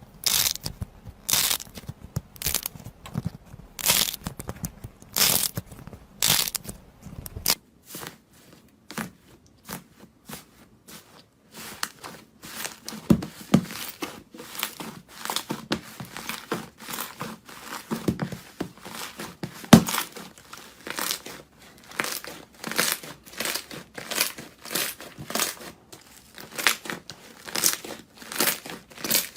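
Crunchy material being squeezed and crushed by hand, with repeated crinkling, crackling strokes. About a third of the way through the sound changes to a quicker, denser run of crackles.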